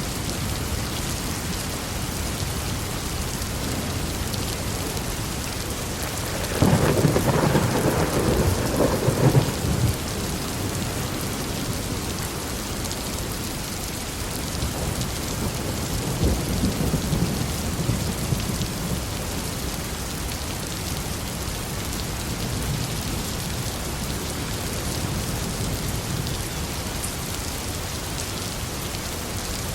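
Heavy, steady rain with thunder: a loud crack of thunder about a quarter of the way in that rumbles for a few seconds, and a second, quieter rumble past the middle.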